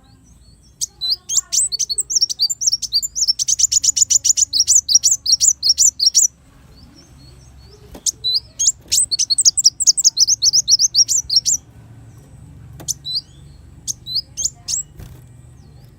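Sunbird (kolibri wulung) singing: two long runs of rapid, high, sharp chirps that speed into a fast trill, each a few seconds long, followed by a few scattered single notes near the end.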